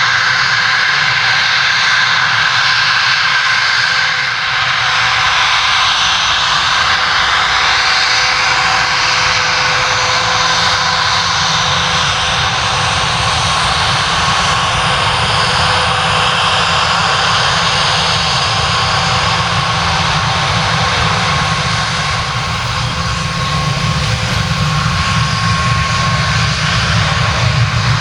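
Bombardier Global Express's twin Rolls-Royce BR710 turbofans running loud and steady, a dense jet noise with a few steady whining tones laid over it.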